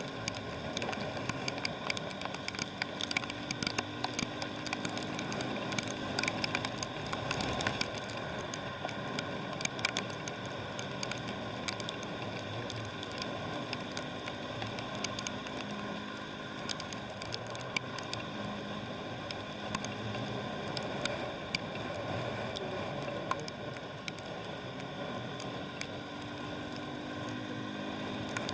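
Steady wet road noise from a motorbike ride in the rain, with a faint low engine hum and many quick crackling clicks, as of raindrops hitting the microphone.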